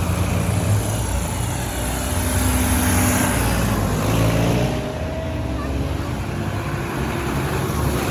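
Modern farm tractors' diesel engines running steadily as they drive past.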